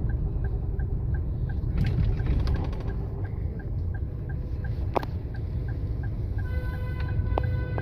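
Low road and engine rumble inside a moving car, with a light, even ticking about three times a second. Near the end a steady electronic tone sounds.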